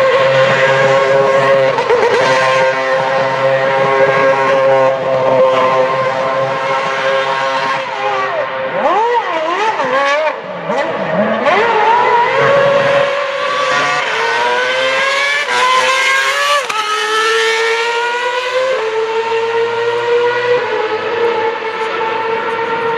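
Renault RS27 V8 of a 2012 Lotus E20 Formula One car at high revs, heard from a distance. Its high engine note holds steady, wavers up and down, then climbs steadily for several seconds before dropping suddenly about three-quarters of the way through.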